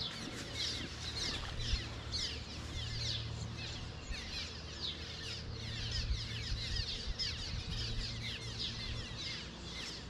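Many birds calling at once, a dense chatter of short, falling chirps overlapping with no let-up, over a low steady hum.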